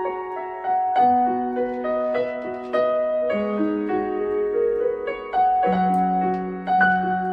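Yamaha MX61 synthesizer playing a piano-like voice: slow held chords over a bass note that changes about every two seconds, with a gentle melody picked out on top.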